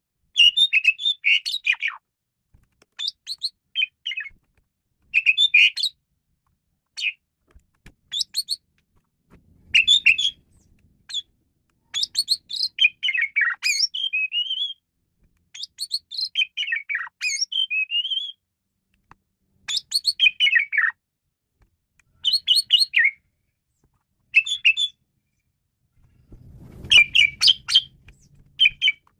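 Male Asian pied starling (jalak suren) singing a varied song: bursts of rapid chattering chirps and short whistled glides, broken by brief pauses.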